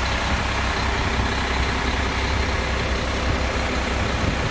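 A 2009 Mack MRU613 garbage truck's diesel engine idling steadily with a low rumble. It runs evenly, and the seller says it sounds great.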